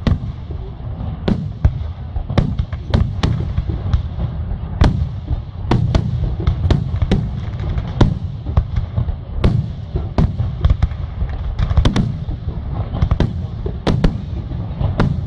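Aerial fireworks display: a rapid, irregular string of shell bursts, two or three sharp bangs and cracks a second over a continuous low rumble of overlapping explosions.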